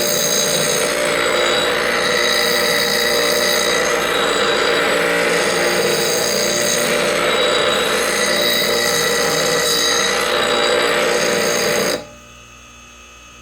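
Bench grinder wheel grinding the bevel of a steel lathe gouge as it is rotated in a Wolverine jig: a loud, steady grinding hiss over the motor's steady whine. It cuts off suddenly near the end, leaving a faint hum.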